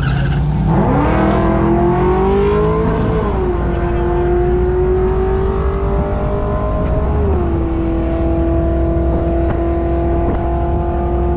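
LS-swapped twin-turbo Fox-body Mustang V8 making a hard drag-strip pass at full throttle. The engine note climbs steeply off the launch, then holds at high revs, with a drop in pitch at each gear change, about three seconds in and again about seven seconds in.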